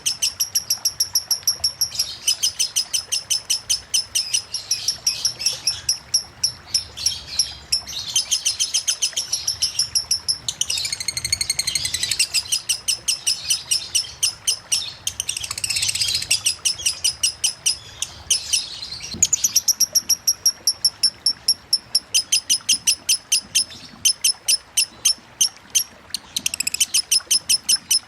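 Lovebird singing a long, non-stop run of rapid, evenly repeated high-pitched ticking chirps, the 'konslet' ngetik song. It is broken twice by a short burst of more varied chattering calls.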